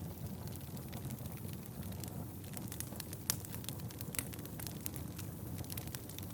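Wood fire burning in a fireplace: a steady low rumble of flames with irregular sharp crackles and pops from the burning logs, one louder pop about three seconds in.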